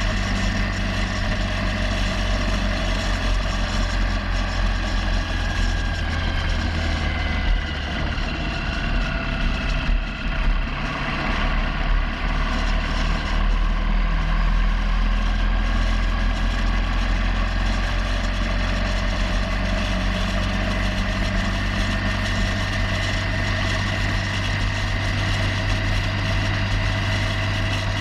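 Motorcycle engine running steadily while riding. There are brief dips in the engine note about eight and ten seconds in.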